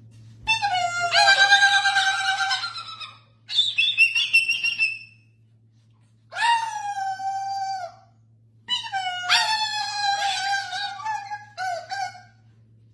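An animal's long, drawn-out cries: four of them, each one to three seconds long, the second pitched higher than the rest.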